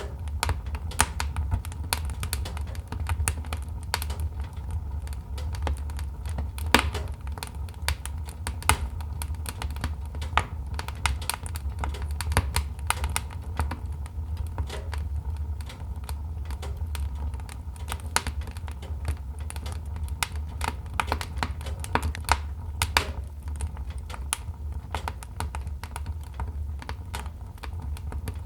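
Wood fire crackling in a fireplace: irregular sharp snaps and pops, several a second, over a steady low rumble of the flames.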